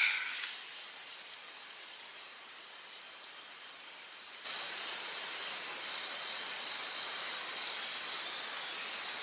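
Insects, crickets by their sound, trilling in one steady high continuous note over a faint hiss of forest ambience; the sound steps up louder about halfway through.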